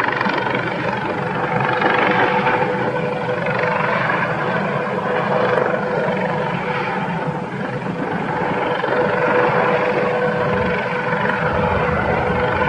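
Helicopter flying, its rotor chop and turbine whine heard steadily with a constant tone and slow swells in loudness.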